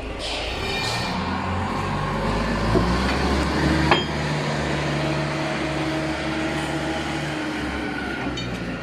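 Concrete block-making machine running with a steady mechanical hum that builds up about a second in, with one sharp click about four seconds in.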